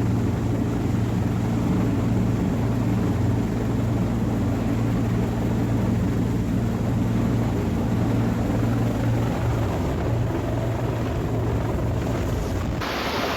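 Rescue helicopter running steadily, its rotor and engine giving a constant low hum that fades off a few seconds before the end. Near the end the sound cuts suddenly to a steady rushing noise.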